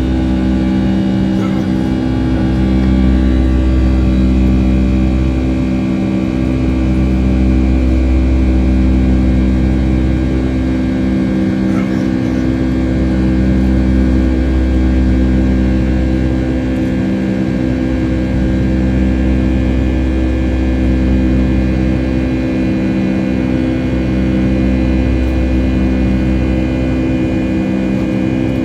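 Steady jet engine drone heard inside the cabin of a Boeing 757-200, a low hum with several constant tones that swells and dips slowly every few seconds.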